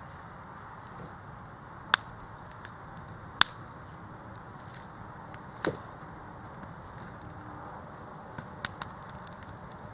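Five sharp cracks or knocks at irregular intervals over a steady hiss, the third one heavier, the last two close together.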